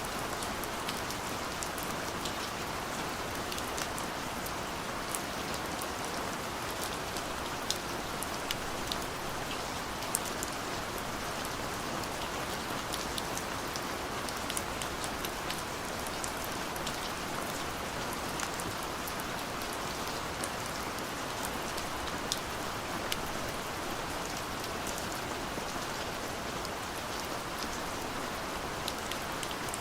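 Steady rain falling, a constant hiss with many sharp, scattered drop ticks.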